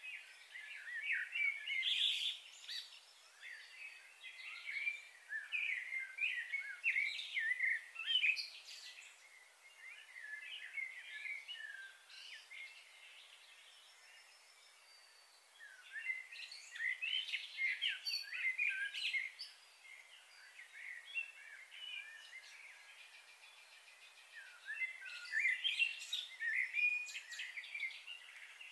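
Birds chirping and twittering in busy bouts of quick, high notes, with short quieter spells in between.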